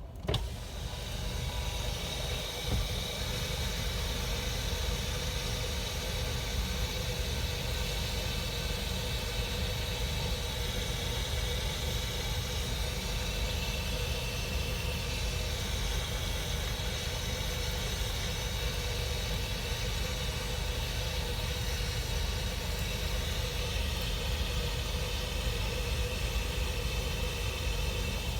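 A car running, heard from inside it: a steady low engine and road rumble with a faint constant hum.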